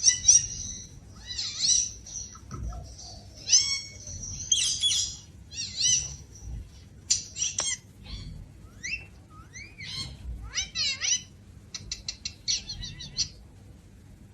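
A string of high, quick bird chirps and squawks, many sliding up or down in pitch, with a fast run of clicks about twelve seconds in.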